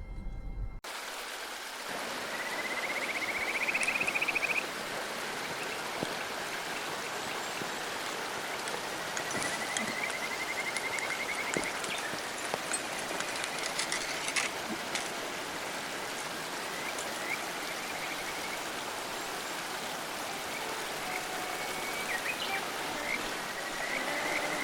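Mountain stream flowing steadily over rocks. A high, rapid trilling call that rises in pitch comes three times over the flow: about two seconds in, again around ten seconds in, and near the end.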